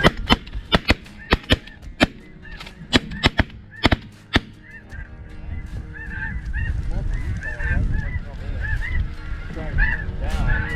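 Snow geese honking, many short calls overlapping over a steady low rumble. A quick run of about a dozen sharp clicks comes in the first four and a half seconds.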